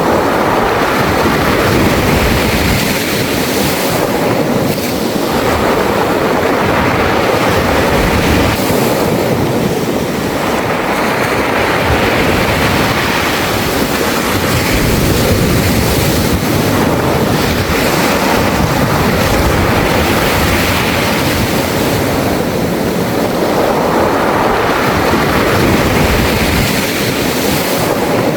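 Sea waves breaking and washing over a beach of smooth, round pebbles (mongdol). The surf runs as a continuous rushing noise that swells and eases every several seconds.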